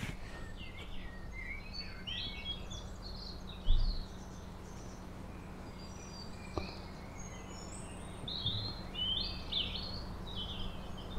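Songbirds singing, a run of short chirps and warbled phrases that goes on throughout, over steady outdoor background noise, with a low bump about four seconds in.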